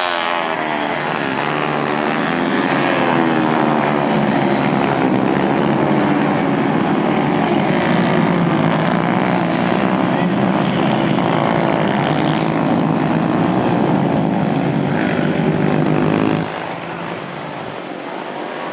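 Several 110 cc racing motorcycles running at high revs in a pack, their engine notes gliding in pitch as they pass near the start. The sound drops off sharply about sixteen seconds in.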